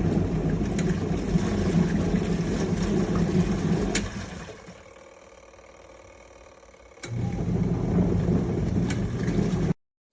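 INTERGREAT portable twin-tub washing machine's wash motor running with a low hum, stopping for a couple of seconds, then starting again. The sound cuts off abruptly near the end.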